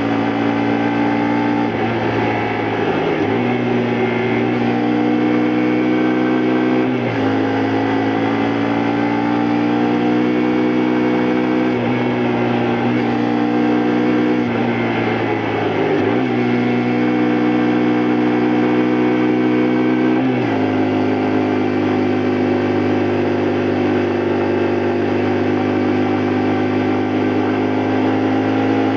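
Honda Varadero XL125V's small V-twin four-stroke engine pulling the bike along, its note climbing steadily and then dropping sharply at each of about four gear changes. After the last change, around two-thirds of the way through, it holds a steady cruising note.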